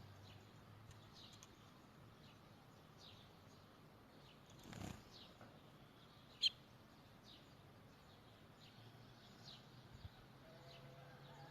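Faint, scattered short bird chirps, each a quick downward note, recurring about once or twice a second. A brief rustle comes a little before halfway, and a single sharp click about six and a half seconds in is the loudest sound.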